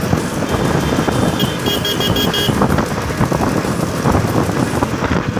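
Road noise from a motorcycle ride through traffic, with a vehicle horn giving a quick run of about five short, high beeps about a second and a half in.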